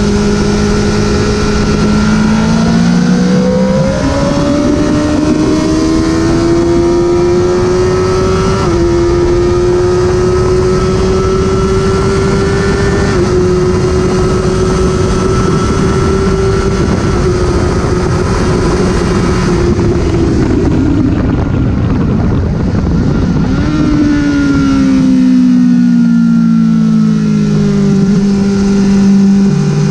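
Honda CBR1000RR's inline-four engine pulling hard through the gears, its note climbing and stepping at each upshift about 4, 9 and 13 seconds in. It holds high for a while, then the pitch falls steadily as the bike slows and starts climbing again right at the end, all over a heavy rush of noise.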